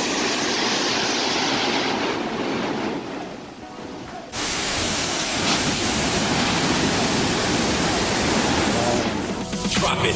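Waterfall rushing with a steady roar of falling water. It drops quieter and duller for about a second and a half, then comes back at full strength abruptly about four seconds in.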